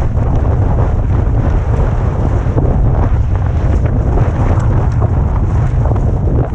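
Heavy wind buffeting on the camera microphone during a fast mountain-bike descent, a dense low rumble with the tyres' trail noise mixed in and scattered small knocks throughout.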